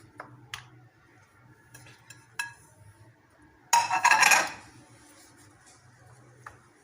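Kitchen handling sounds as sandwiches are laid onto a hot sandwich toaster: a few light clicks and taps, then a louder clatter of dishes and utensils lasting under a second about four seconds in, and one more small click near the end.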